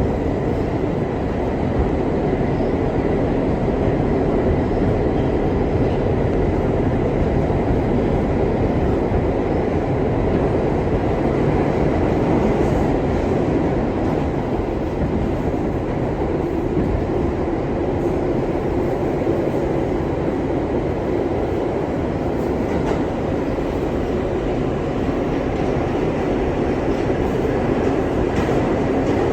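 R62 subway train running at speed: a steady rumble of wheels on track with no stops or changes.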